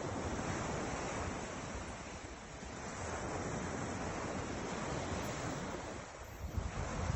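Ocean surf: waves breaking and washing in, in two long swells of about three seconds each, with some wind.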